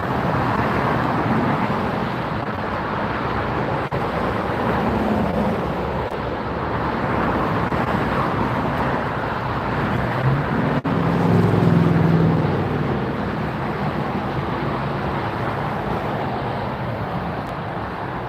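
Steady roar of vehicle and engine noise at an airport, swelling with a low engine hum about ten seconds in before settling back.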